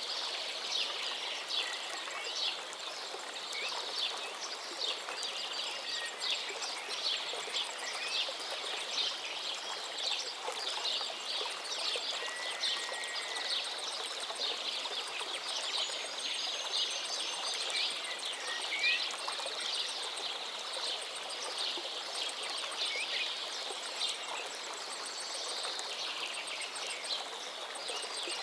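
Steady running, splashing water, with scattered bird calls over it, among them a few short rising and falling calls.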